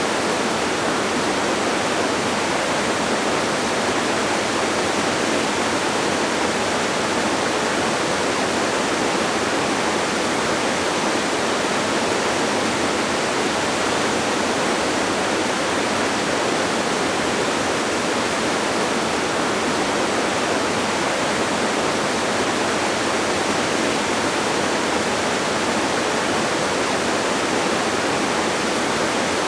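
Waterfall, a steady, even rush of falling water with little bass and no change over time.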